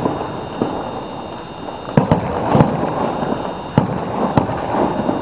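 Aerial fireworks shells bursting: a handful of sharp bangs and pops, the first about two seconds in and a few more spaced out towards the end.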